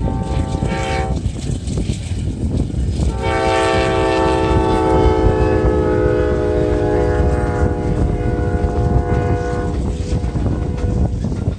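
Train horn on a P42DC diesel locomotive sounding a short blast, then a long blast of about six and a half seconds, over the steady rumble of the passing train.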